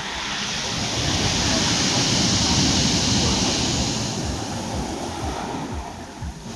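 Sea surf: a wave breaks and washes in, swelling to a peak about two and a half seconds in and then ebbing away. Wind rumbles on the microphone underneath.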